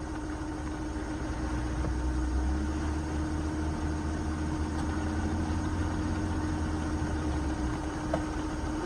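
Vehicle engine idling: a steady low rumble with a constant hum.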